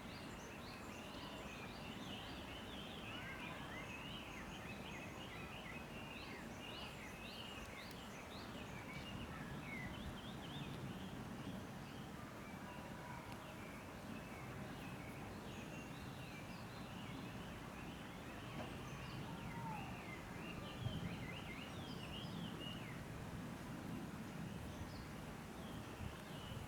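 Many small birds chirping in quick runs over a steady outdoor background hum.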